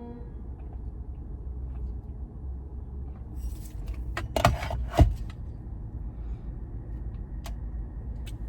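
Low steady rumble of a car interior, with two sharp knocks about four and a half and five seconds in, the second the louder.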